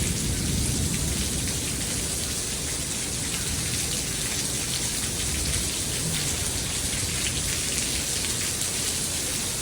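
Heavy rain falling, a steady dense hiss with faint scattered drop hits.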